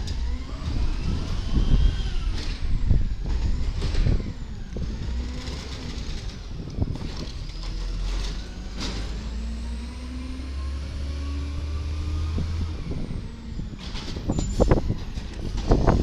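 Garbage truck's diesel engine revving up and down hard with a deep growl, then climbing steadily for several seconds, mixed with several short sharp hisses and knocks typical of the truck's air brakes and working body.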